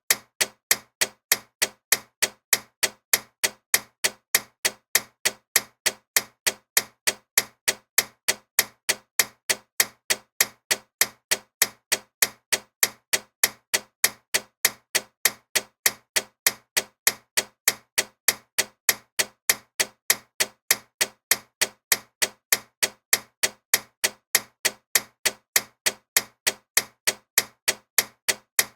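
Loud ticking clock: sharp, evenly spaced ticks, about four a second, without a break.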